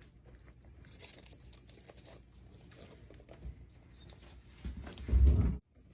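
Moluccan cockatoo crunching and tearing dried rose leaves with its beak, a run of small dry crackles with a brighter burst about a second in. A loud low bump near the end.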